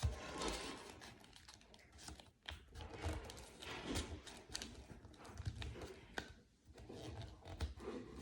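Sheet of paper being folded and creased by hand: faint rustling and crinkling with scattered sharp little clicks and soft taps.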